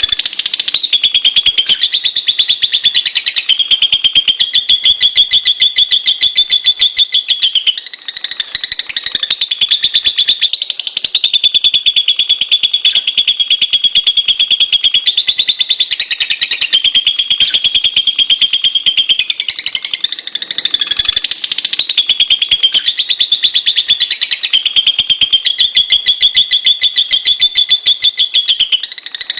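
Lovebird chattering in a long, rapid, shrill trill that runs on almost without pause, with short breaks about eight and twenty-one seconds in.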